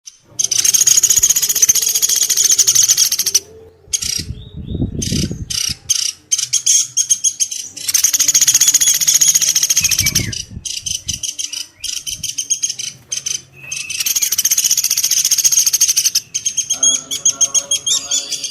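Woodpecker calls played as a bird-lure recording: three long, fast, high-pitched rattling trills, with runs of shorter separate call notes between them. Two brief low thumps come in between.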